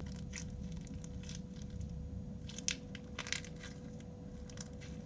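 Crunchy slime with beads mixed through it being squeezed and worked by hand, giving irregular crackling and popping clicks.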